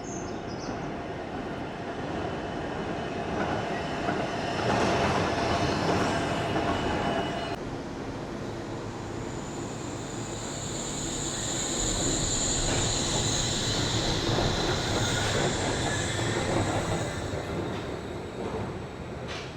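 Train running on its rails, with a held tone that swells and stops abruptly a third of the way in. It is followed by several seconds of high-pitched wheel squeal.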